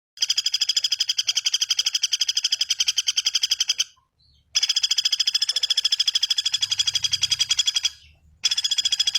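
A bird calling in long, rapid trills of evenly repeated high notes, about eleven notes a second. The first trill stops before the four-second mark, the second runs from about four and a half seconds to eight, and a third starts near the end.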